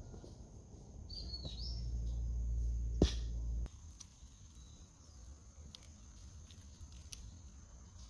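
Outdoor background sound: a low rumble swells for the first three and a half seconds and cuts off abruptly just after a sharp click. A short bird chirp sounds about a second in, and the rest is a quieter background with a few faint ticks.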